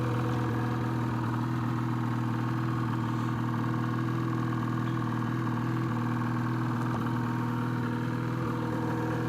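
Ski-Doo 600 H.O. E-TEC two-stroke twin snowmobile engine idling steadily, in break-in mode, which holds the revs down and adds extra oil injection.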